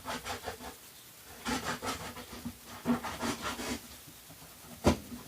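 A plastic container being cut: three bursts of quick, rough cutting strokes, then a single sharp snap near the end.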